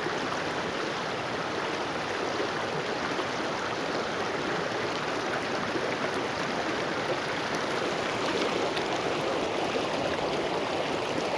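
Mountain creek running steadily over rocks, an even rushing of water.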